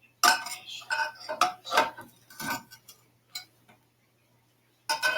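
Hard objects clanking and clinking together, metal or crockery: about half a dozen sharp knocks with brief ringing in the first three seconds, a single one a little later, and another cluster near the end.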